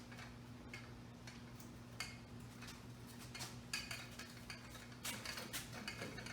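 Faint, scattered clicks and taps as fishing line is fed through the slots of plastic trim boards clamped in a vise, with a steady low hum underneath.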